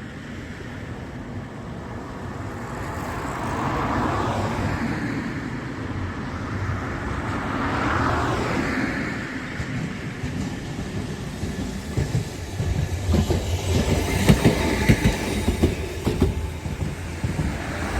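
A rail vehicle passing close by, growing louder, with a quick run of sharp clicks from its wheels over the rail joints in the second half.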